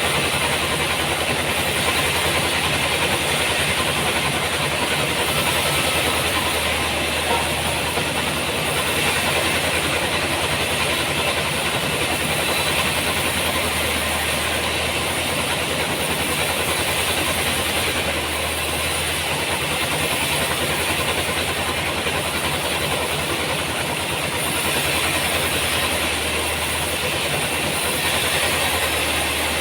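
Sawmill machinery running steadily: a motor's low hum that shifts slightly every few seconds, under a constant hissing saw noise.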